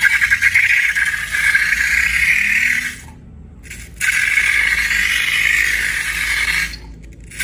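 Rattling, scraping handling noise from slime-making, with a quick run of clicks at the start. It cuts out abruptly twice for under a second.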